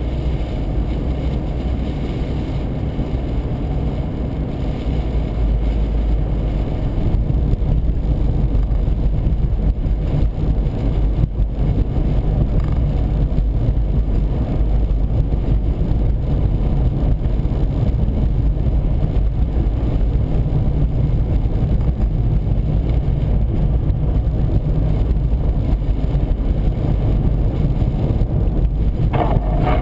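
Car driving at highway speed, heard from inside the cabin: a steady low rumble of tyre, engine and wind noise, a little louder from about seven seconds in.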